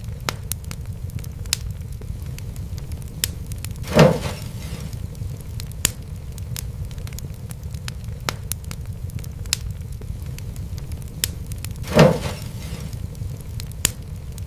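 Wood fire crackling over a steady low rumble, with frequent sharp snaps and two louder pops about 4 and 12 seconds in.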